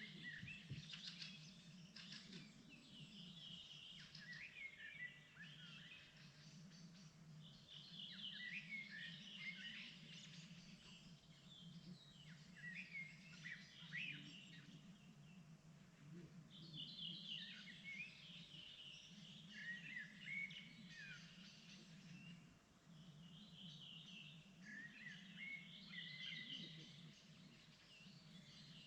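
Songbirds singing in spring, quick chirping song phrases of a few seconds each with short pauses between them, over a steady low hum.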